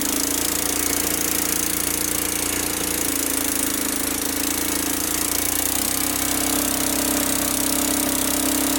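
Loud, steady drone of a running engine-driven machine, with a constant hum that shifts slightly in pitch about six seconds in.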